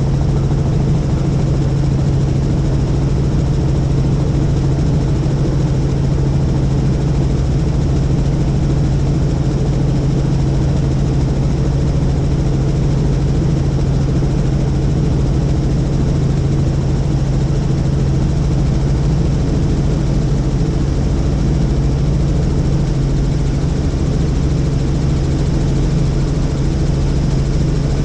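Helicopter running: a steady, unbroken drone of rotor and engine with a strong low hum.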